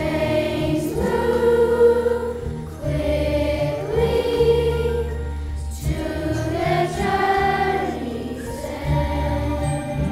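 Chorus singing with instrumental accompaniment, in phrases of two to three seconds over steady low held notes.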